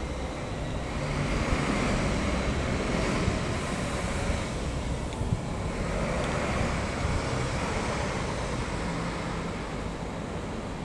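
Steady rumble and hiss of a moving vehicle, swelling and easing slightly.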